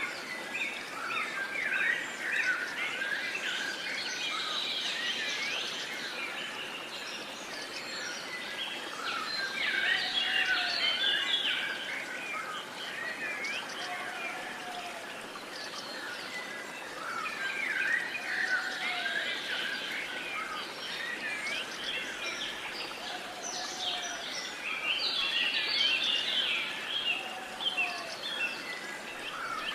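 A dense chorus of many small birds chirping and twittering together, swelling and fading every several seconds. A lower, short call repeats about every four seconds over a faint steady hiss.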